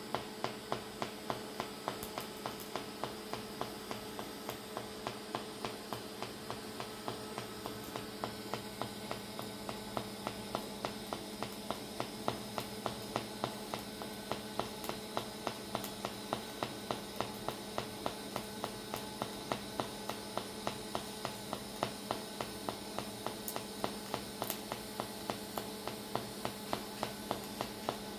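TIG welding arc on pulse setting: a steady electrical buzz with an even, sharp tick about three times a second as the current pulses.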